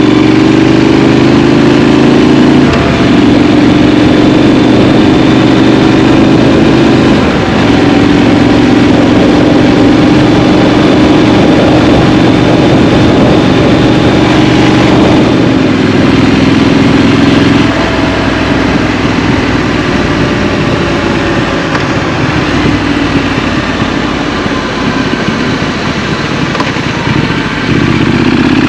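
Scrambler motorcycle engine riding through traffic, its pitch stepping up and down with throttle and gear changes through the first half. About halfway through it eases off and runs quieter and lower for around ten seconds, then picks up again near the end.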